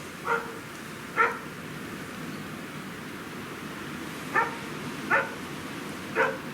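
A dog barking: five short single barks spaced unevenly, over a steady rushing background noise.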